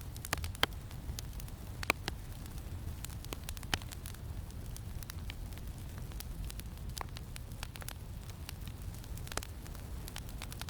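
Campfire crackling: scattered sharp pops and snaps over a steady low rumble of wind.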